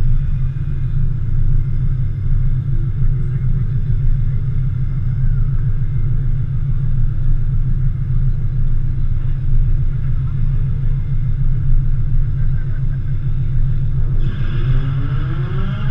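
Car engines idling in a drag strip staging lane: a steady, heavy low rumble with a fluttering level. Near the end, higher tones that rise and fall come in over it.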